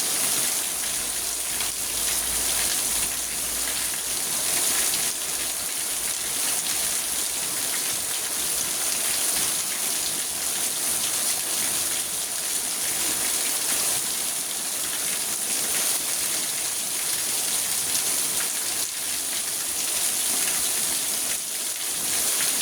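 Steady rain falling on a car's roof and glass, heard from inside the car as a dense, even patter.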